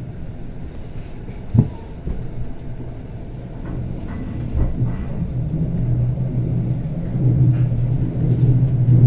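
Bernina Express train running, heard from inside the carriage: a steady rumble of wheels on rails, with a single sharp knock about one and a half seconds in and a low hum that grows louder over the second half.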